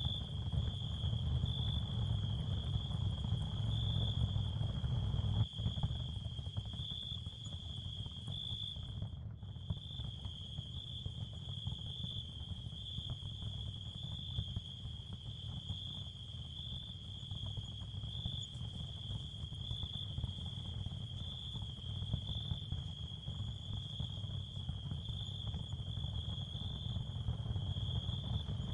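Ambient sound field of a steady, high cricket chorus over a low, even rumble, with a brief dip in the chirping about nine seconds in.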